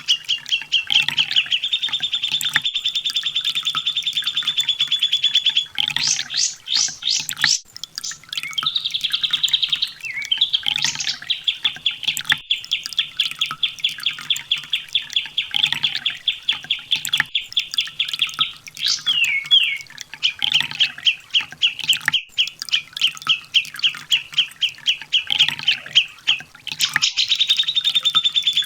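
Olive-backed sunbird singing long, rapid trills of repeated high notes, broken by short pauses and a few quick rising and falling phrases.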